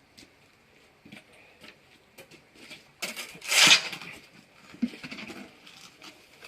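Masonry work with a trowel and cement mortar: scattered light knocks and scrapes, with one loud rasping scrape lasting under a second about three and a half seconds in.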